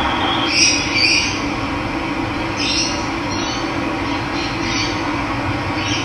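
Steady rush of running water, with short bird calls chirping over it several times.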